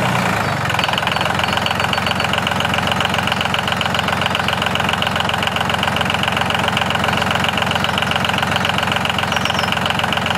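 A motor or small engine running steadily with a fast, even pulsing beat, starting about half a second in as music fades out.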